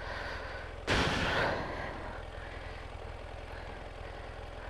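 A motorcycle engine idling as a steady low rumble, with a brief rush of noise about a second in.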